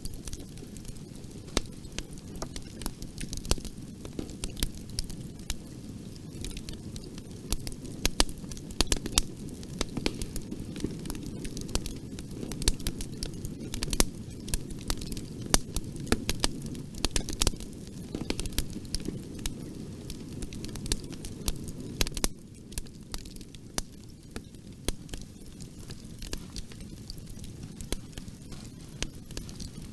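Wood fire crackling in a fireplace: a steady low hiss of burning under frequent sharp pops and snaps, busiest in the middle stretch.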